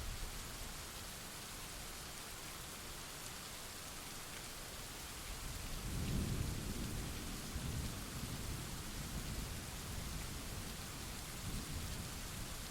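Steady rain hiss with rolling thunder: a low rumble swells about six seconds in and rolls on in smaller waves.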